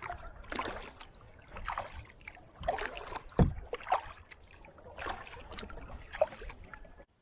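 Kayak paddle strokes dipping and pulling through river water, a splash about once a second, with a single low thump about halfway through. The sound cuts off suddenly just before the end.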